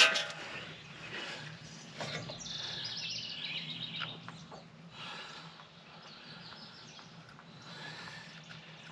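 A sharp knock right at the start, then birds chirping and trilling over a steady low hum.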